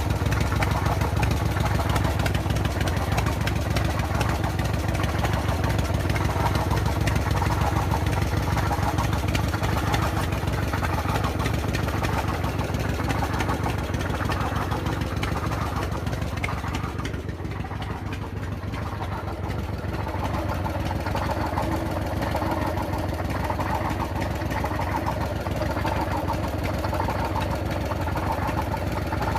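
Harley-Davidson Evolution V-twin engine running steadily, with a mechanical noise that has developed in the engine. The owner suspects the rockers, though the noise is also strong low down by the rear cylinder. It turns a little quieter for a few seconds past the middle.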